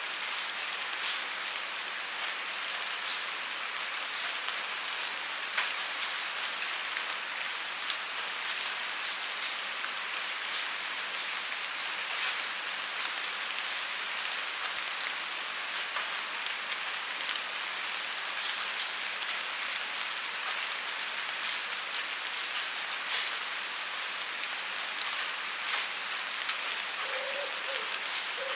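Steady rainfall, an even hiss of rain with many distinct individual drop hits scattered through it.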